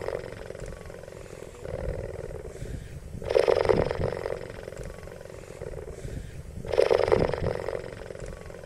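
Cheetah purring in a steady cycle. A louder stretch of about a second comes roughly every three and a half seconds, with a softer stretch between.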